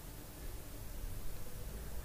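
Faint hiss of green chilli–ginger paste frying in oil in a nonstick pan, stirred with a wooden spatula.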